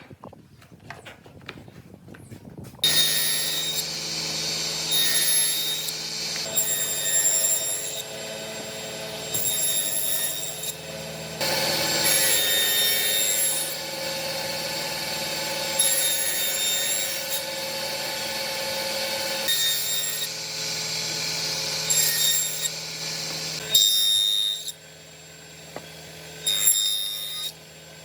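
An electric power tool working wood, starting about three seconds in and running steadily with a whine, its sound changing every second or two as it is worked along the wood.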